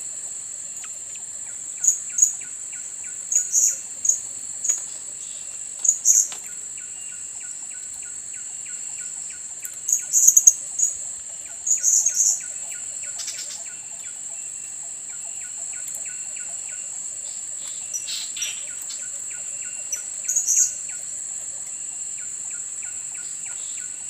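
Blue-crowned hanging parrots giving short, shrill, high chirps in small clusters every few seconds, loudest about ten to twelve seconds in. Under them runs a steady high insect whine and a faint fast ticking.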